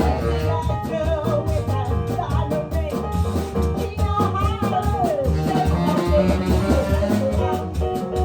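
Live band playing an upbeat Latin-tinged blues number, with a pulsing bass line, drums and melody lines from voice or instruments.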